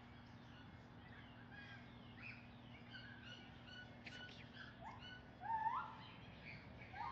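Birds chirping and calling: many short gliding whistled notes overlapping and growing busier, with a louder rising call about five and a half seconds in. A faint steady low hum runs underneath.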